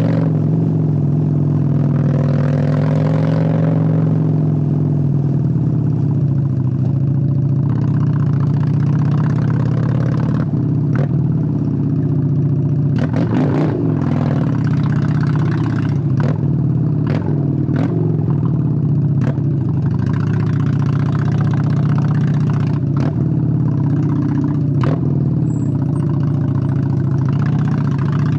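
Honda Steed 600's V-twin engine running at low, fairly steady revs, its pitch rising and falling slightly in the first few seconds. From about ten seconds in, a scattering of sharp pops cuts through the engine note.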